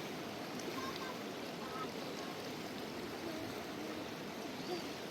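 Rushing mountain river, a steady, even water noise, with faint voices in the background.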